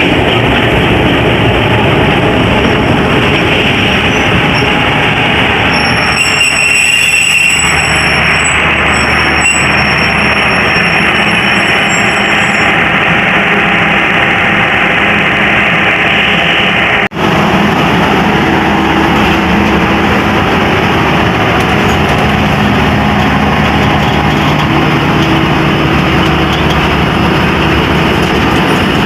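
Pakistan Express passenger train running along the track: a steady rumble of wheels on rails with a low engine hum. A brief high-pitched squeal comes about six seconds in, and the sound cuts out for an instant about halfway through.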